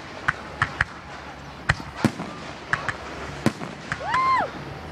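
Fireworks show: aerial shells and comets going off in an irregular series of about eight sharp bangs and cracks. About four seconds in there is a short whistle that rises, holds and falls.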